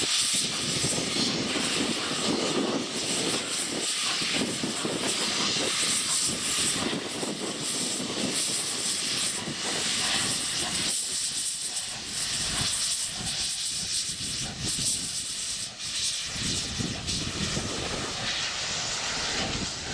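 Strong wind buffeting the microphone: a loud, rushing roar that swells and dips in gusts.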